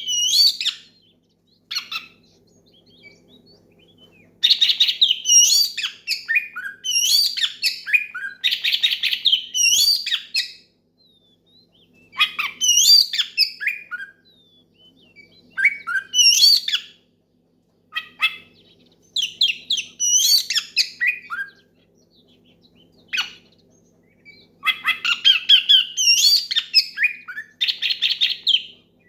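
Oriental magpie-robin (kacer) singing loudly in repeated bursts of rapid, varied whistled phrases with short pauses between them. This is the full, loud song of a bird calling out a rival, the kind played to set other magpie-robins singing.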